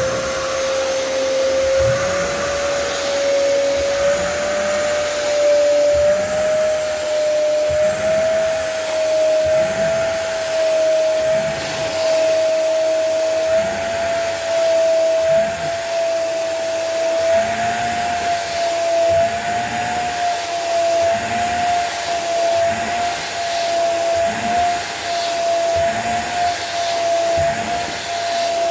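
Carpet-washing wet vacuum cleaner running steadily, its motor whine slowly rising in pitch. A regular swish of strokes runs underneath as it is worked over the carpet.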